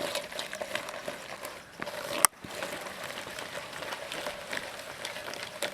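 Spoon stirring a thick curd-and-spice marinade in a bowl, a run of soft irregular scraping and squelching, with one sharp click a little over two seconds in.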